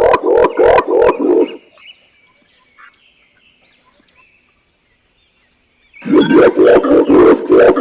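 Green imperial pigeon's loud, deep cooing series: rapid pulsed hoots at about four a second. The calling stops after about a second and a half, leaving faint high chirps, and starts again about six seconds in.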